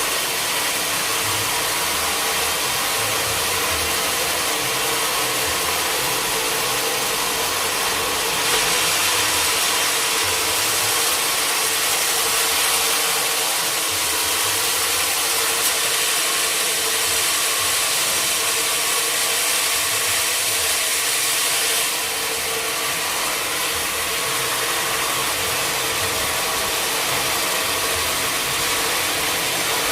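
Sawmill machinery running steadily, a hum under a loud hiss. The hiss grows brighter from about a third of the way in until about two-thirds through.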